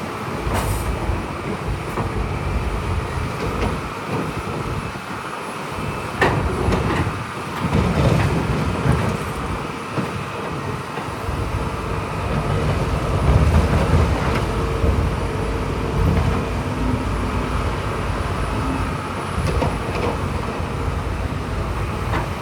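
Heavy earthmoving machinery at work: a diesel engine running under load, with rattling and several sharp metallic clanks, and the low rumble swelling louder a few times.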